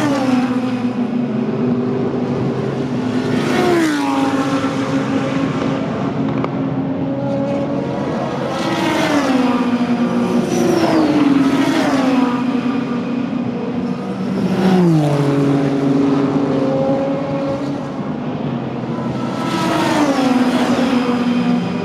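Super GT race cars passing one after another at speed, their engine notes dropping sharply in pitch as each goes by, about six passes with other engines heard under them the whole time.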